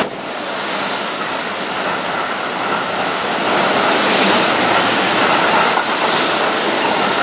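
Keihan 3000-series limited-express train running past along the platform: a steady rush of wheel and running noise, growing a little louder and hissier about halfway through.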